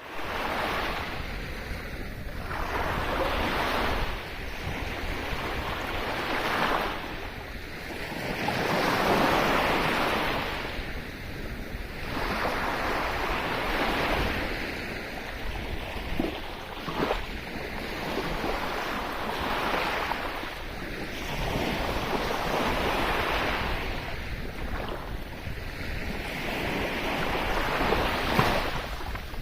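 Sea waves breaking and washing on the shore in a steady rise and fall every few seconds, with wind blowing over the microphone. A few brief splashes or crackles stand out about halfway through and near the end.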